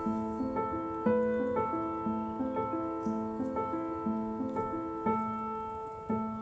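Background music: soft solo piano playing slow, gently repeating broken chords, with a low note about once a second.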